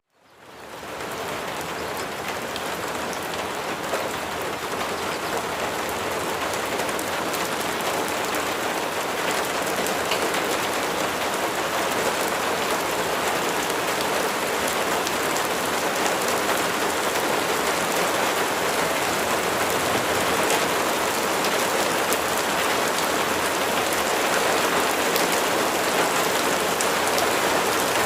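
Steady rain falling, an even hiss of many drops on a surface. It fades in from silence at the very start and then keeps on unchanged.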